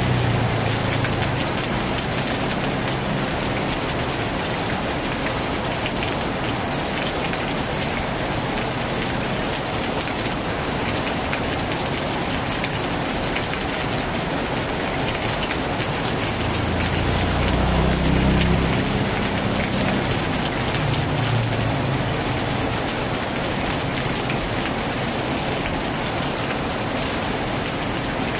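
Heavy rain drumming steadily on a tin roof. A low rumble rises and fades at the start and again for a few seconds past the middle.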